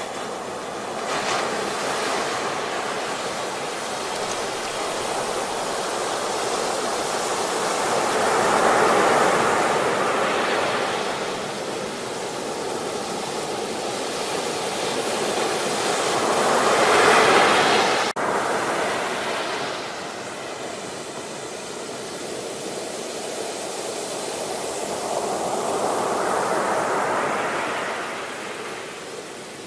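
Ocean waves breaking and washing up, the rush swelling and fading three times, about every eight seconds.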